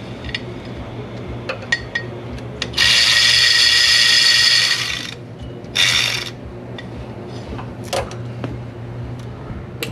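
Ratchet wrench run under power, loosening a fastener: one steady two-second buzz about three seconds in, then a short burst about a second later, with small tool clicks and knocks around them.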